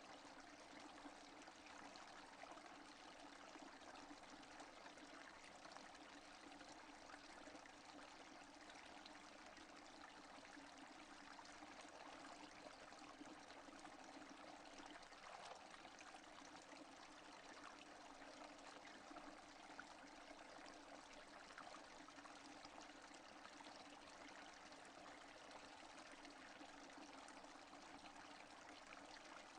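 Faint, steady rain: an even hiss of many drops falling, with no thunder.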